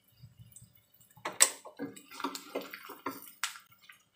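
Egg omelette frying in oil in a steel wok: irregular pops and crackles along with knocks of a wooden spatula against the wok, loudest about a second and a half in.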